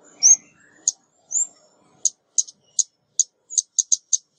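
Female ốc mít bird calling on a trapper's lure recording: short, sharp, high chip notes in a quick irregular series. There are a couple of hooked, upswept notes in the first second and a half, and the chips come faster and closer together in the second half.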